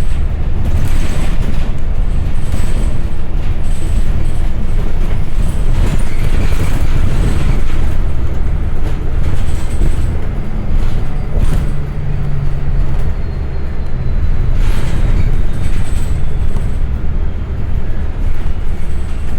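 City transit bus underway, heard from inside the cabin: a heavy, steady rumble of engine and road noise, with scattered rattles and knocks from the body.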